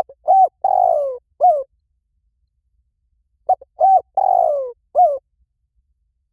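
Spotted dove cooing: two phrases about three and a half seconds apart, each a few short coos around a longer coo that falls in pitch.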